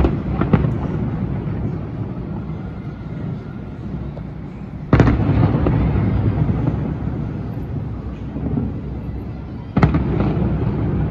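Aerial firework shells bursting. There are two quick bangs at the start, one about five seconds in and one near the end, and each trails off in a long rolling rumble.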